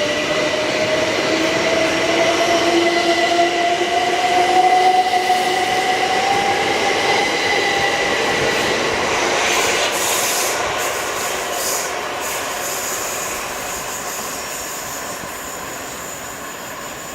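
Class 387 electric multiple unit pulling away, its traction motors whining with a pitch that rises steadily as it accelerates. Wheels squeal and tick over the rails about ten seconds in, and the sound fades as the train draws away.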